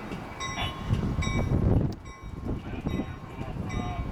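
NJ Transit commuter train standing at a station platform. A short bell-like ringing repeats about twice a second over a low, uneven rumble.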